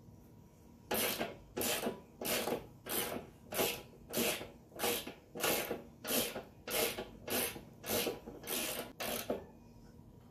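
Hand ratchet wrench worked back and forth in about fourteen even strokes, roughly one every 0.6 s, then stopping.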